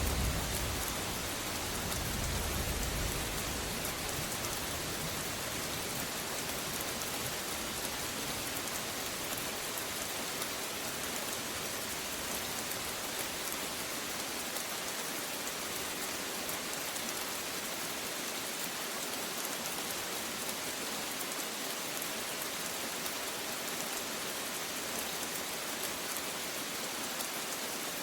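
Steady rain falling, an even hiss. A low rumble of thunder dies away over the first few seconds.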